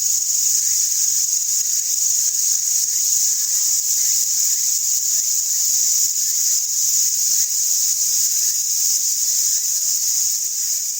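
Insect chorus: a steady, unbroken high-pitched shrilling.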